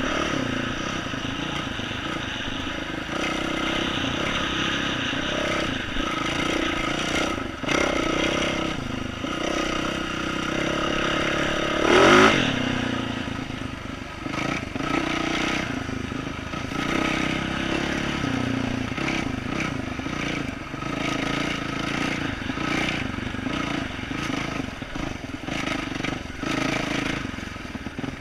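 2012 Yamaha YZ450F single-cylinder four-stroke dirt bike with an aftermarket exhaust, running on a trail, its revs rising and falling as the throttle opens and closes. The loudest rev comes about twelve seconds in. Clattering knocks run throughout as the bike rides over roots.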